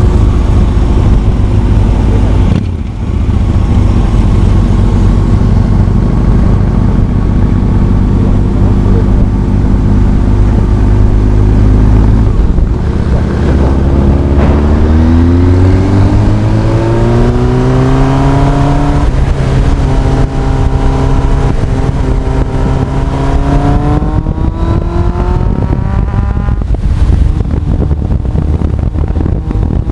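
Honda CB1300 Super Bol d'Or's inline-four engine running under way. It holds steady at first, with a brief dip about three seconds in, then revs up with rising pitch, drops at a gear change, and climbs again near the end.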